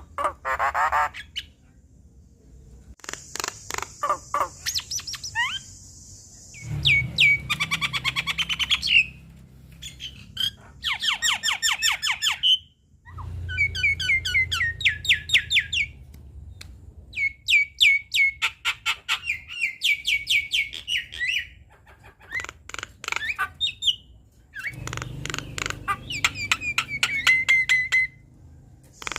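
Javan myna singing in loud bursts of a few seconds: rapid runs of harsh, clicking notes and fast whistled sweeps, with short pauses between the runs.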